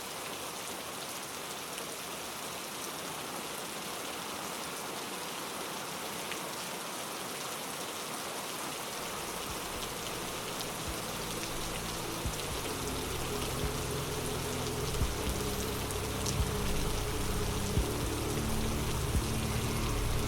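Steady rain falling, with louder single drops tapping now and then in the second half. About halfway through, soft low sustained music tones fade in under the rain and grow louder.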